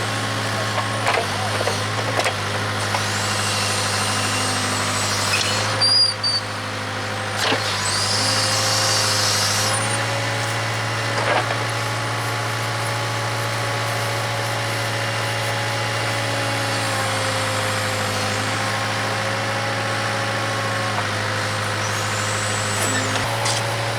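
Case 580K backhoe's diesel engine running steadily under digging load, with a hydraulic whine whose pitch shifts a little as the controls are worked. A few sharp metallic clanks and several short swells of high hiss come through.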